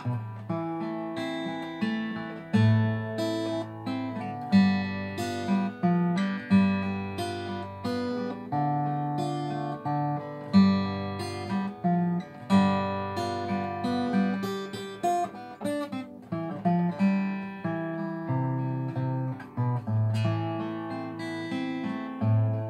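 Solo acoustic guitar playing a slow major-key song in waltz time, with plucked notes and chords over changing bass notes.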